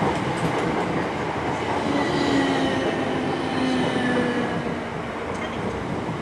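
Electric multiple-unit train running along the line with a steady rumble, faint squealing tones rising over it about two to four seconds in.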